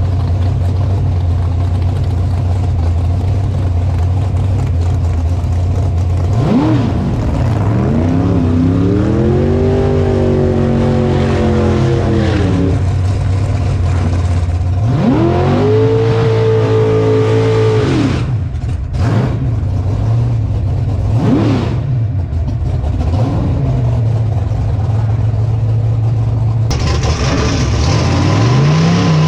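Drag race car engine heard onboard, idling low, then revved up and held at high revs for several seconds, twice. Short throttle blips follow, it drops back to idle, and it revs up again near the end.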